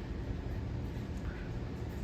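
Hampton Bay Gazebo 52-inch ceiling fan running at a lower speed setting, with a steady motor hum and rumble.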